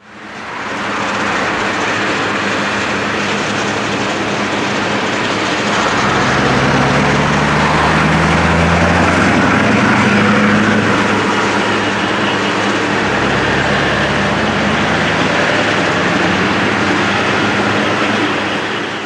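Scania 164G 580 V8 diesel truck engine running through open, straight stack pipes with a deep exhaust note. About six seconds in it gets louder and rises in pitch as the engine is worked harder, then settles to a steadier run.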